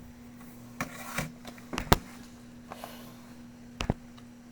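A handful of short, sharp knocks and clicks, the loudest about two seconds in, over a steady low hum.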